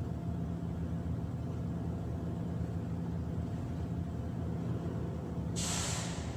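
Steady low engine hum, with a short burst of hiss about five and a half seconds in.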